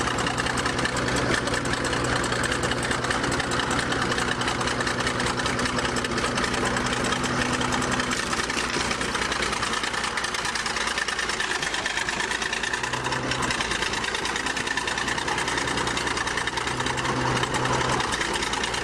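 Bulldozer's diesel engine running steadily, its note shifting a few times.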